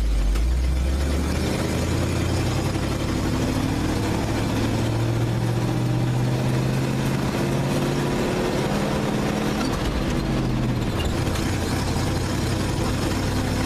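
Engine of a loaded vintage dump truck pulling away from a stop, rising in pitch over the first few seconds as it gets under way, then running steadily under load, and easing off about eleven seconds in.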